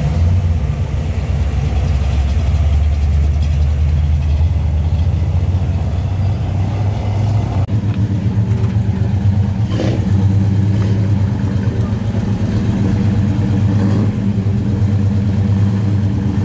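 Classic Chevrolet car engines running at low speed through loud exhausts: first a 1956 Chevrolet two-door sedan driving past, then, after a cut about eight seconds in, a 1969 Chevrolet Chevelle pulling away slowly.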